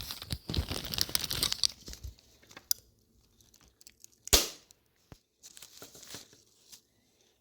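Glass laptop hard-drive platter being broken: crackling for the first two seconds, then one sharp, loud snap about four seconds in, followed by a few smaller crackles of the glass.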